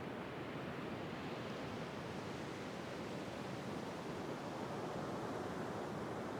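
Ocean surf washing steadily, a continuous rush of breaking water that grows a little brighter and hissier through the middle.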